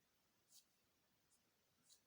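Faint pencil strokes on paper while a landscape is sketched: three short scratches.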